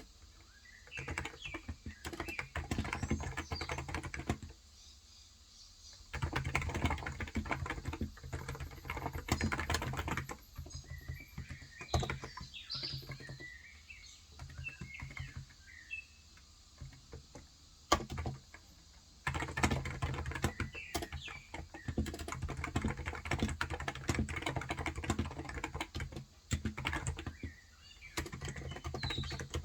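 Typing in bursts on a Cox Endeavour tenkeyless keyboard with electrostatic capacitive (non-contact) 35 g switches, with pauses between runs of keystrokes. During a long pause in the middle, small birds chirp.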